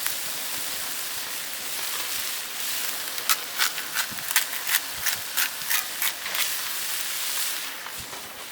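Steady hiss of cooking over a wood fire, with a quick run of about ten sharp clicks and pops in the middle.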